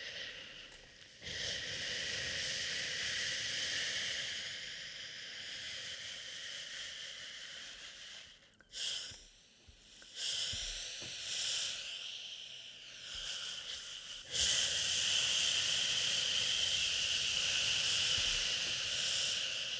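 Long, steady shushing, a hissing "shhh" held for several seconds at a time, with short breaks about a second in and near the middle. It grows louder about two-thirds of the way through.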